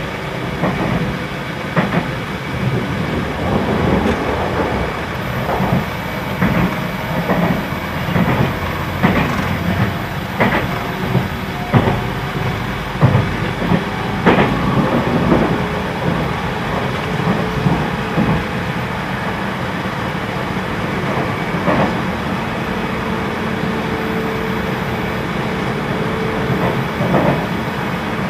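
Running noise heard inside a JR Central 313 series electric train: a steady rumble of wheels on rail, broken by irregular clicks and knocks as the wheels pass over rail joints and points. The car's air conditioning, which is rather loud, runs underneath.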